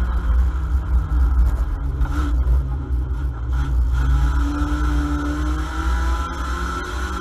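Ford Mondeo banger race car's engine running under racing load, heard inside the cabin over a heavy low rumble of vibration and wind. The engine note dips about two seconds in, then climbs again around five seconds.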